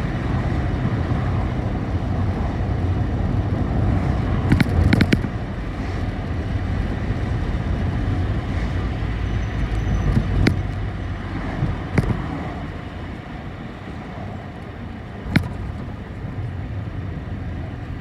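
City bus driving, heard from inside the passenger cabin: a steady engine and road rumble. A short burst of rattles comes about five seconds in, single sharp knocks follow a few times later, and the rumble eases off over the second half.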